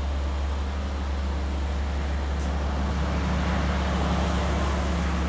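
Parking tram running at a stop: a steady low engine hum under a rushing noise that swells a little midway.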